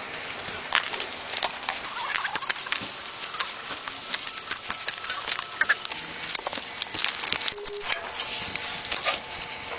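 Body-worn camera rubbing against clothing and gear as the wearer walks: dense, irregular scuffs, rustles and clicks with footsteps. A short high chirp sounds about three-quarters of the way through.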